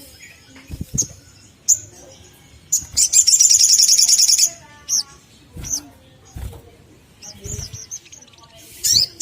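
Sunbird calling: sharp, high chirps and a fast, rattling trill about three seconds in that lasts a second and a half, with another trill starting at the end. A few dull low thumps fall between the calls.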